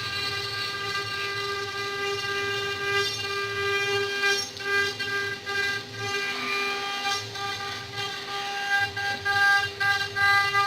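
CNC wood-carving router running, its spindle giving a steady high whine, with the sound swelling and dipping irregularly from about four seconds in.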